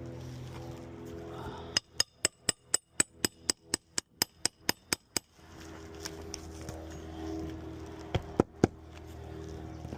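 Hammer blows driving nails into a roof shingle: a quick, even run of about fourteen strikes, roughly four a second, each with a metallic ring, then three more strikes near the end.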